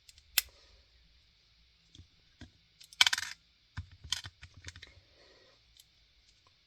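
Small plastic LEGO pieces being handled and fitted: scattered light clicks and taps, with a brief rattling clatter of pieces about three seconds in.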